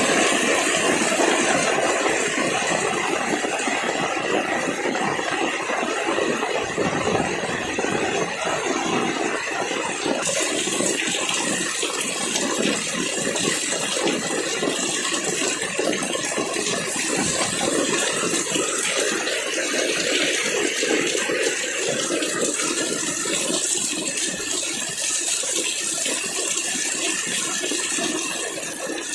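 Heavy rain pouring down, a dense steady patter of drops.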